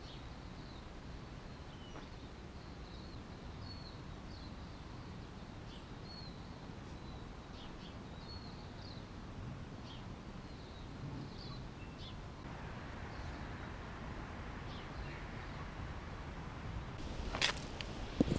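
Faint, high bird chirps repeating every second or so over a quiet outdoor background hum. Near the end comes a sharp knock and rustle as the camera is handled.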